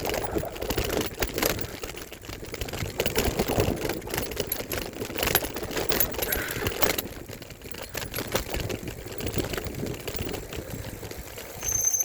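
Mountain bike and handlebar-mounted phone holder rattling and knocking over a bumpy trail, with tyre and wind noise. Near the end a steady high-pitched squeal starts.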